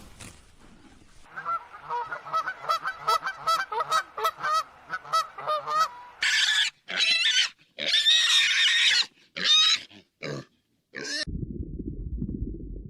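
Pig grunting in a quick run of short calls, then letting out a series of loud, harsh squeals. Near the end a different low rumbling noise starts.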